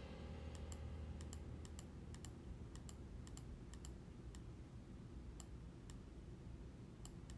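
Faint, irregular clicks of a computer mouse and keyboard, about two a second, over a low background hum.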